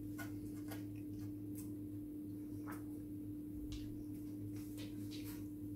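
A person chewing a mouthful of chicken burger with scattered, irregular soft clicks and smacks of the mouth. A steady low hum runs underneath.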